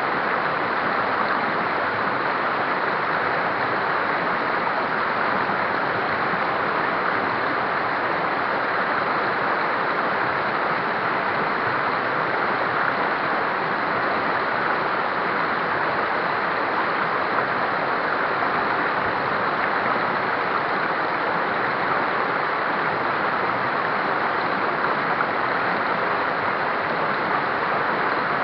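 River rapids: fast water rushing over rocks with a steady, unbroken roar.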